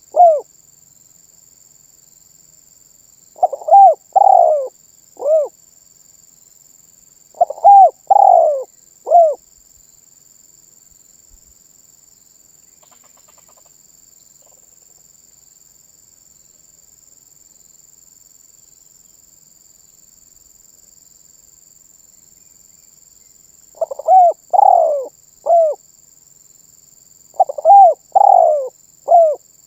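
Spotted dove cooing: repeated phrases of three or four rounded coo notes, close and loud, with a long pause of about fourteen seconds between the third and fourth phrase.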